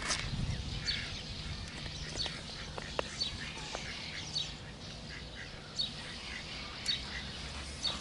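Birds calling: short calls falling in pitch, repeated every half second or so, with a few sharp clicks of handling mixed in.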